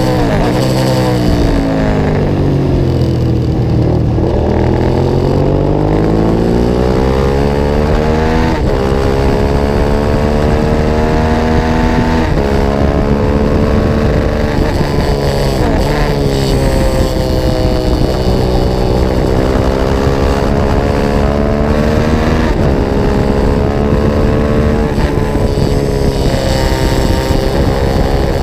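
Onboard sound of a racing motorcycle's engine under way: it drops in pitch at the start as the bike slows, then climbs hard through the gears, with sudden falls in pitch at each upshift, about four times.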